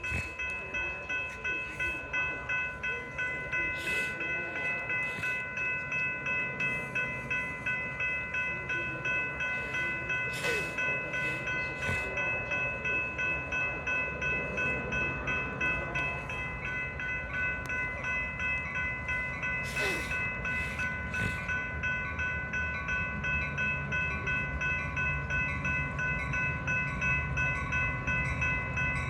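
Railroad grade-crossing bell ringing steadily at about two strokes a second, with a low rumble building near the end.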